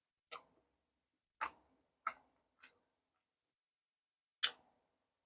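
Five short, sharp clicks at uneven intervals while eating, the last one the loudest.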